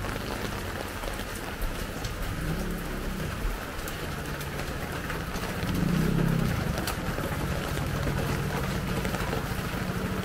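Steady rain hiss on the street, with motor vehicle engines running. One engine grows louder about six seconds in, then settles into a steady low hum.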